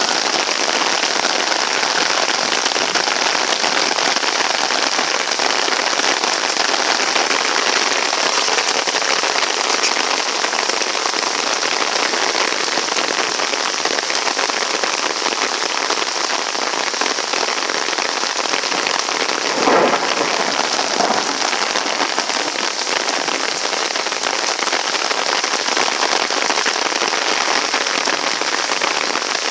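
Heavy rain pouring steadily in a thunderstorm, a dense even hiss of drops. A brief louder sound stands out about two-thirds of the way through.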